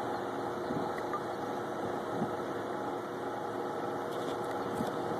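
A vehicle engine idling steadily, a low even hum with no change in pitch.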